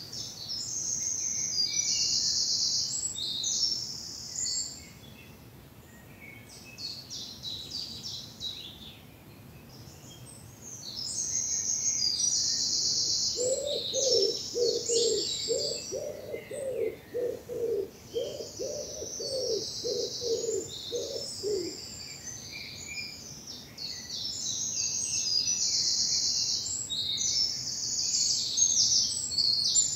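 Spring woodland dawn chorus: several songbirds singing high, rapid, twittering phrases, pausing briefly twice. From about 13 to 22 seconds in, a low cooing call repeats about a dozen times beneath them.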